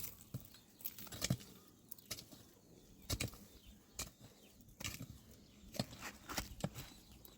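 An irregular series of sharp knocks and clicks, one or two a second, some landing close together.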